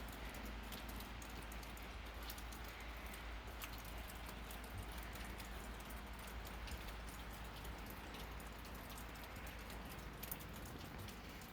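Meltwater from thawing snow dripping and pattering: many small, irregular drop ticks over a faint steady hiss.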